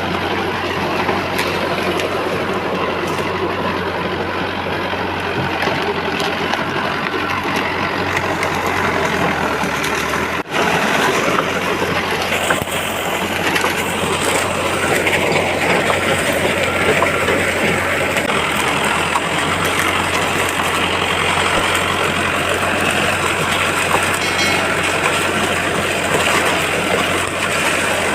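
Heavy diesel engine running steadily, with a low constant hum and a brief drop in sound about ten seconds in.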